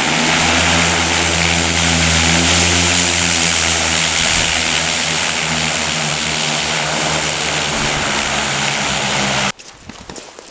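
Propeller aircraft engine running steadily and loud, with an even droning hum. It cuts off abruptly near the end, leaving much quieter sound with a few small clicks.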